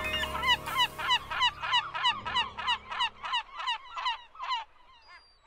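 A rapid series of bird calls, about four a second, growing fainter and stopping near the end, over held low music notes that cut off about three seconds in.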